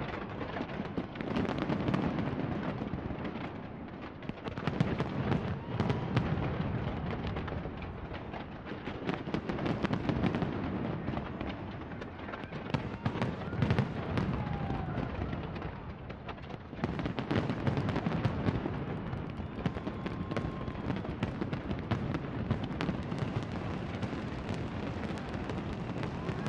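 Large fireworks display going off in a continuous barrage of bangs and crackling bursts that swells and eases in waves, with a few short whistles among them.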